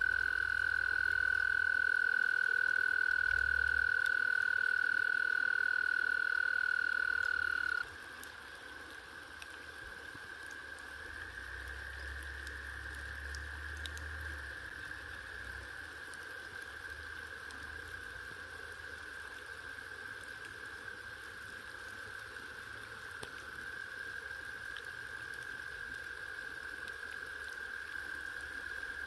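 Frogs calling: one loud, steady trill for about the first eight seconds that cuts off suddenly, then a fainter, unbroken chorus of trilling frogs.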